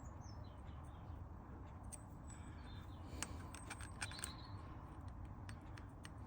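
Quiet workshop background hum with a few light metal clicks as the machined cylinder cap is tried on the cylinder for fit. There are faint high chirps near the start.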